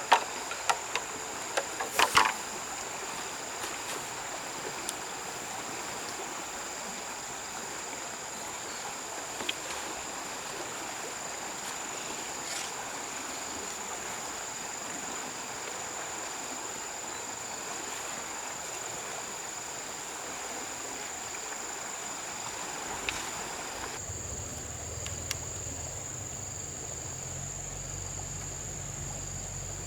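Insects chirring in one steady high-pitched tone over running water, with a few sharp knocks or splashes in the first couple of seconds. About 24 s in the water sound drops away and a low hum comes in.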